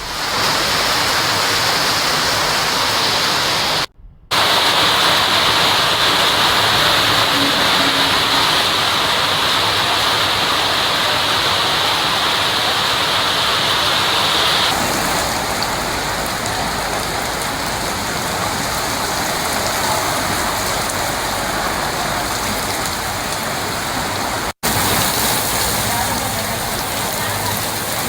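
Heavy rain pouring steadily, cut into several clips with two brief sudden dropouts, about four seconds in and near the end.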